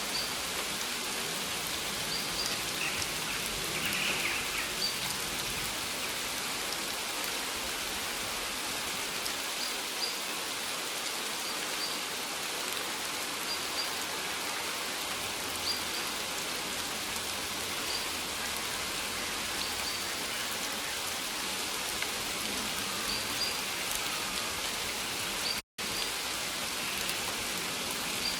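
Steady rain falling as an even hiss, with faint short high-pitched chirps recurring every second or two. The sound cuts out for a split second near the end.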